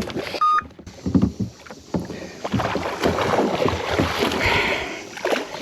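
Water splashing and irregular knocks against a kayak hull, with a brief high squeak about half a second in.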